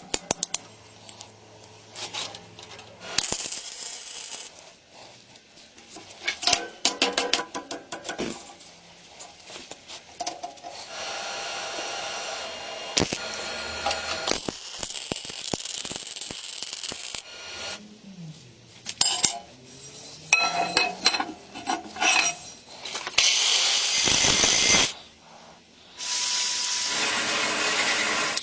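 Workshop handling sounds: small metal parts and tools clinking, tapping and scraping. Midway, a small machine runs steadily for several seconds.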